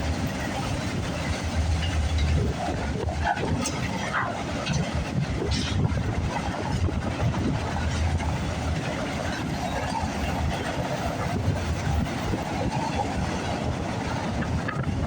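A train running past on the line, a steady rumble with scattered clicks from the wheels on the track, mixed with wind on the microphone.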